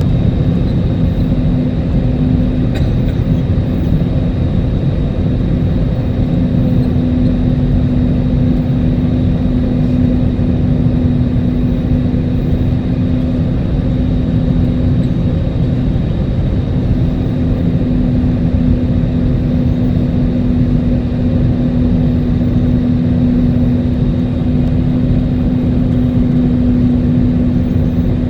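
Steady cabin noise inside an Airbus A320neo during landing: a loud, even rumble of engines and airflow with a constant low hum and a faint high whine over it.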